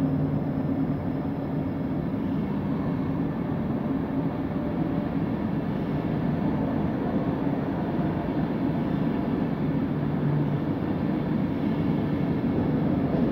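ÖBB Railjet passenger train pulling out of the station, its coaches rolling past slowly with a steady, even rumble.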